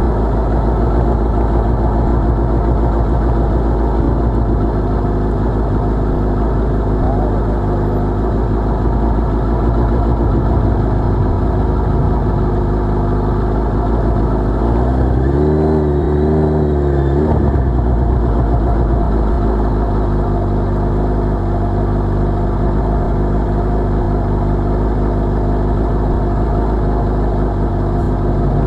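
Suzuki Hayabusa's inline-four engine running at low revs while the motorcycle rolls slowly in traffic, with a brief rise and fall in pitch about halfway through.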